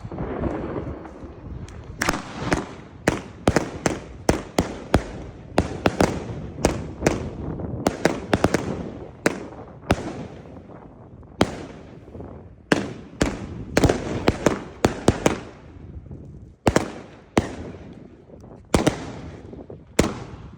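Edaha 'Argento' 36-shot firework cake firing, a long irregular string of sharp bangs about one to two a second, some in quick pairs, with a hiss between them.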